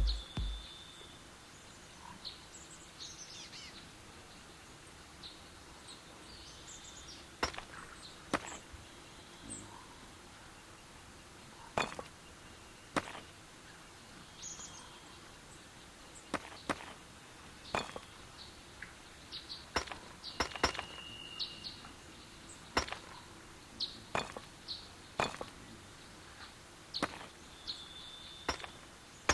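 Sharp taps and knocks at irregular intervals, coming more often in the second half, over a quiet outdoor background with birds chirping now and then.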